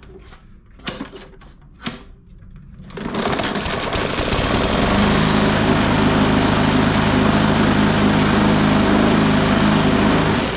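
Briggs & Stratton 500E-series 140cc engine on a push mower, after two sharp clicks, starting about three seconds in and then running steadily at full speed with its blade spinning. The blade is very unbalanced, which sets the mower vibrating.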